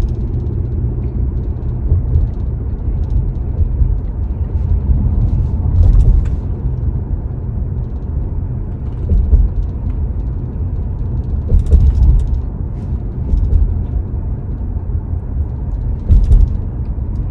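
Steady low road rumble of a car heard from inside the cabin while driving, with a few brief knocks or clicks.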